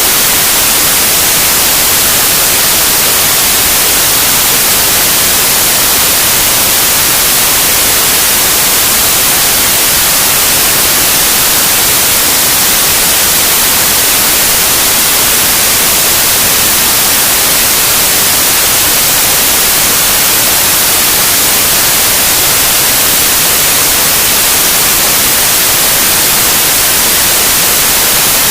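Loud, steady white noise: an even, unbroken hiss that stays the same throughout, strongest in the upper pitches.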